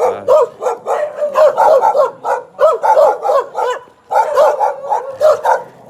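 Dogs barking loudly at people walking by, a rapid run of overlapping barks several a second, with a short break about four seconds in.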